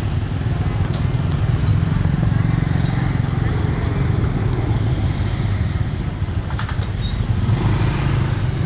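A motorbike engine running close by, a steady low rumble, with a few short high chirps above it.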